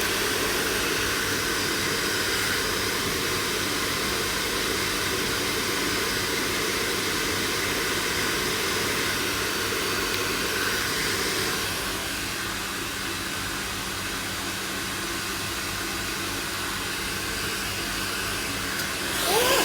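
Handheld hair dryer blowing steadily, a motor whine under a rush of air; it gets slightly quieter about twelve seconds in, and near the end there is a brief rising whine.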